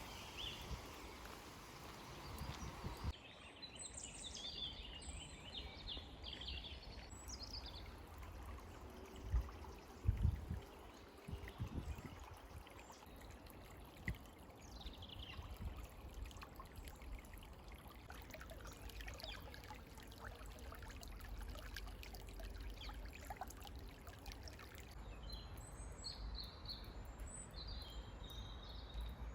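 Small stream trickling and flowing steadily. Birds chirp now and then, and there are a few soft low thumps about ten seconds in.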